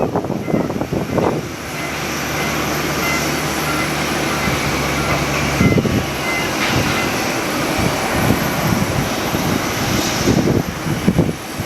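Aircraft engine noise at an airport, with gusts of strong wind buffeting the microphone. A steady low drone sits under the noise for a few seconds and cuts off about halfway through.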